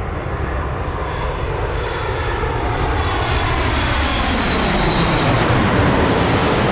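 Jet airliner engines passing close, the noise growing steadily louder with a whine that falls in pitch.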